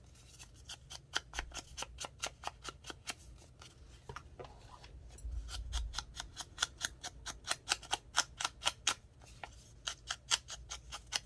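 Scissors snipping through paper in quick, regular cuts, about five a second, with a short pause partway through.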